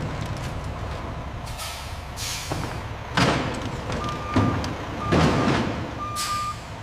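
Factory machinery running, with repeated sharp air-release hisses from pneumatic equipment and three short, steady high electronic beeps near the end.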